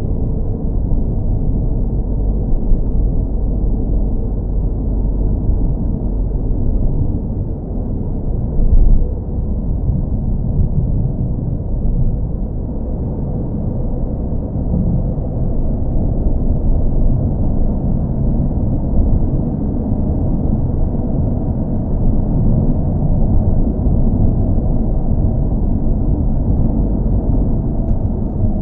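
Car engine running with road rumble, as on a drive: a steady, muffled low drone, with one brief louder bump about nine seconds in.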